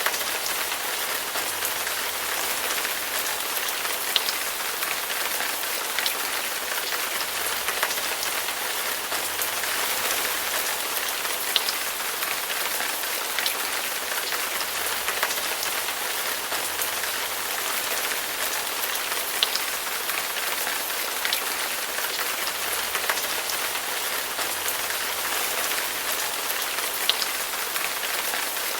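Heavy rain falling steadily, a dense even hiss with sharp, louder drops ticking out of it every second or two.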